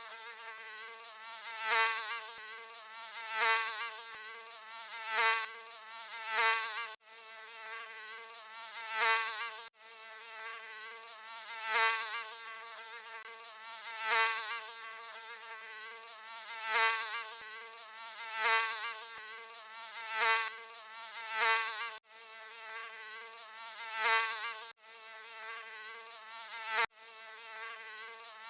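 Mosquito buzzing: a high whine with many overtones that swells and fades every second or two. It cuts out for an instant a few times.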